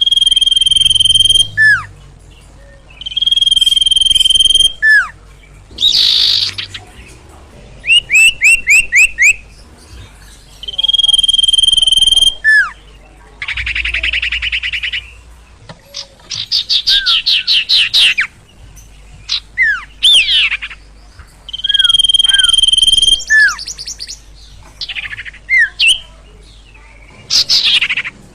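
A bird known in Indonesian bird-keeping as the sirtu (sirpo) singing loudly in varied phrases. Long steady whistled notes, each about a second and a half, alternate with quick runs of sweeping notes and short down-slurred whistles.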